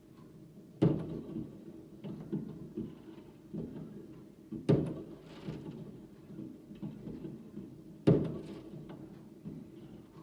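Fireworks going off: three loud bangs about three and a half seconds apart, each trailing off, with smaller pops and crackles between them.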